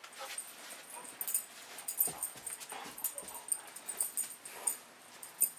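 Dogs at play: short whimpering yips with a busy patter of irregular sharp clicks and scuffles.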